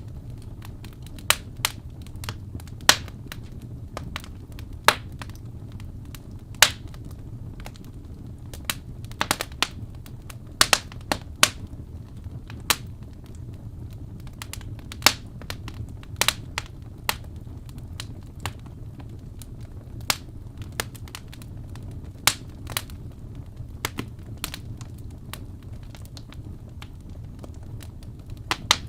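Wood fire crackling: irregular sharp pops and snaps, a few every couple of seconds, over a steady low rumble.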